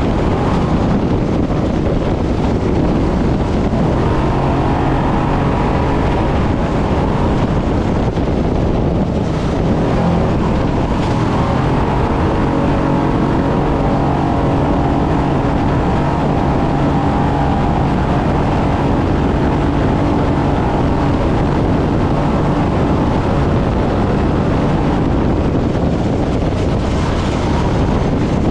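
Brenthel 6100-class trophy truck's engine running hard at speed, a loud steady engine note whose pitch shifts now and then with the throttle, over a constant rush of driving noise.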